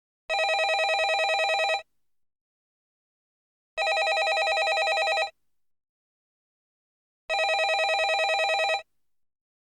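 Landline telephone bell ringing: three rings of about a second and a half each, evenly spaced with short silences between, each ring a fast, even trill of the bell.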